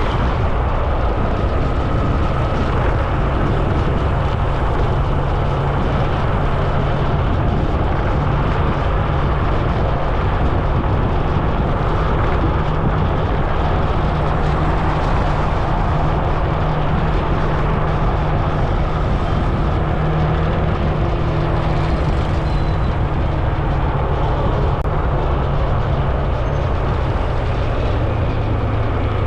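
Steady rush of wind and road noise picked up by an action camera on a moving rider, with a faint low steady hum underneath.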